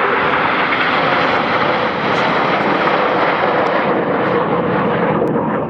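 BAE Hawk T1 jets of the Red Arrows passing overhead in formation, a loud, steady jet roar with a steady tone running through it, easing off near the end.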